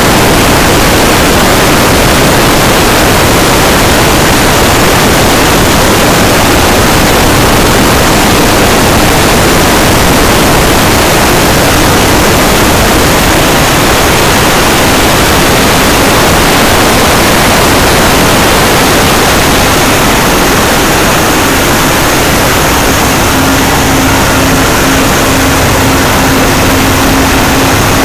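Passenger ship's engine-room machinery running, a loud, dense and unbroken din. A steady hum comes in near the end.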